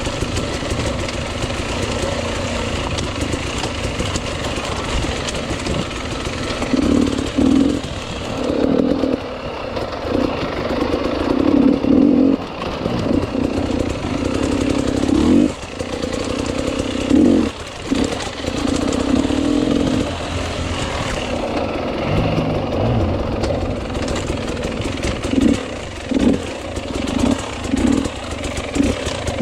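Enduro motorcycle engine running under riding load, with repeated surges as the throttle is opened and closed. The surges come in long pulls in the middle and quick short blips near the end.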